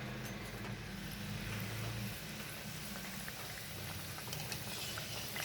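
Stuffed paneer and cheese rolls deep-frying in hot oil: a steady crackling sizzle, with a low steady hum underneath.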